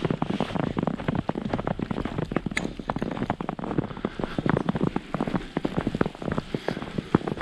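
Snow crackling: a dense, irregular patter of small sharp ticks, many to the second.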